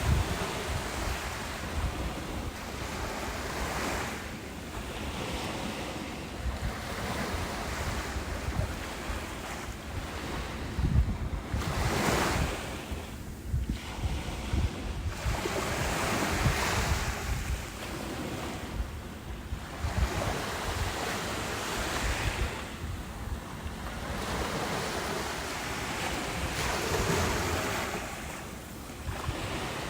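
Ocean waves breaking and washing up a beach, the surf swelling and falling back every few seconds, with wind buffeting the microphone.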